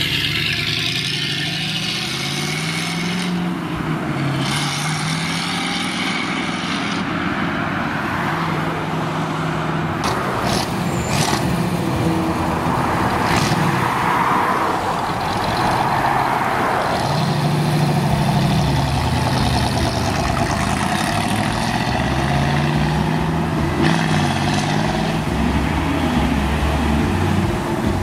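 Several cars driving slowly past one after another, among them classic C1 Corvettes with small-block V8s, the engine notes rising and falling as each one pulls away.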